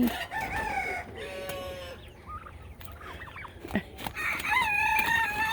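Poultry calling: several short calls in the first two seconds, one of them buzzy, then one long held call starting about four seconds in.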